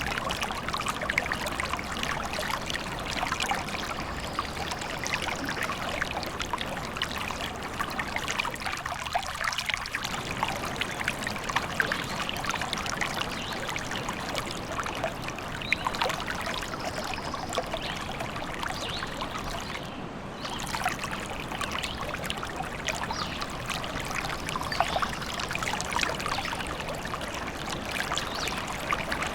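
Stream trickling and babbling steadily, with many small splashes.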